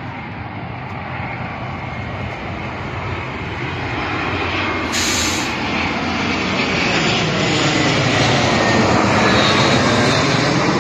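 Jet airliner flying low overhead near the airport, a steady roar of engine noise that swells louder over the last several seconds as it comes closer.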